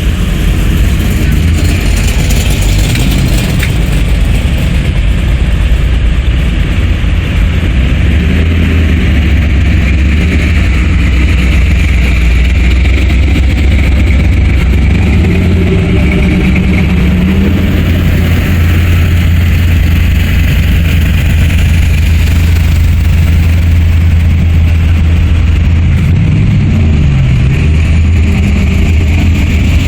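Engines of show cars in a parade running at low speed, a steady deep rumble with some wavering swells as individual cars rev lightly.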